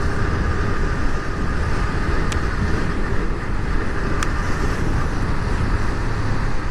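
Steady wind and road rumble from riding on a motorcycle, with the engine running underneath, heard from a camera on the rider. There are two faint sharp ticks, about two and four seconds in.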